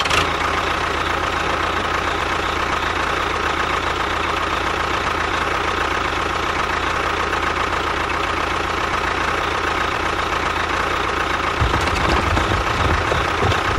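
A small motor running steadily with a constant whine, joined by a heavier low rumble about two seconds before the end.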